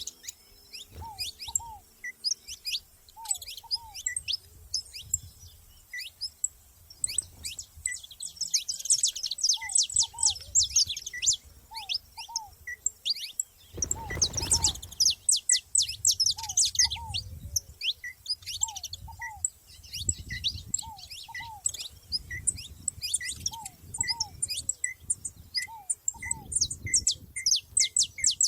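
Saffron finches chirping: a busy run of quick, high chirps with a short note repeated about once a second and pairs of lower down-slurred notes. A low rumble comes and goes, and a brief rush of noise sounds about halfway through.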